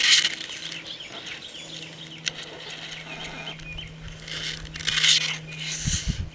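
Small birds chirping, with many quick high chirps running throughout, and a few short bursts of rustling noise, the strongest about a second before the end. A steady low hum runs underneath for most of it.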